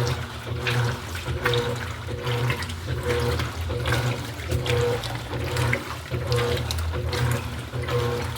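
Electrolux LED14 top-load washing machine agitating a wash load: water sloshing in the tub, with the motor humming steadily and a swish about every 0.8 s as the agitator reverses.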